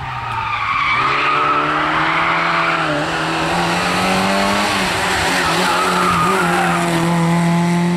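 Lada rally car's four-cylinder engine held at high revs as the car slides through a corner, its tyres squealing. The engine note climbs over the first few seconds, dips briefly, then stays high.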